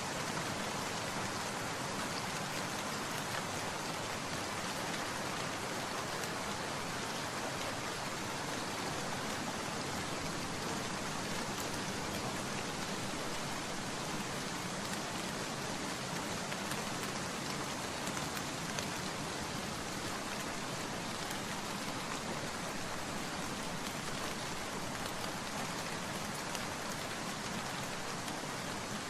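Steady rain falling, an even hiss of many drops on surfaces with no thunder or other events.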